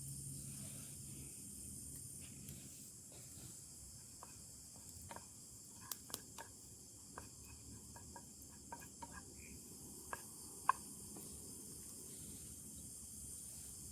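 Faint forest ambience with a steady high insect chorus. A low machine hum fades out in the first couple of seconds. Scattered sharp clicks and ticks come through the middle, one louder near the end.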